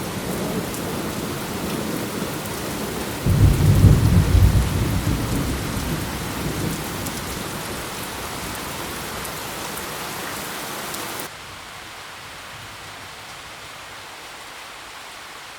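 Heavy rain falling steadily, with a loud roll of thunder about three seconds in that rumbles on for a few seconds. About eleven seconds in, the sound drops suddenly to a quieter, steady rain hiss.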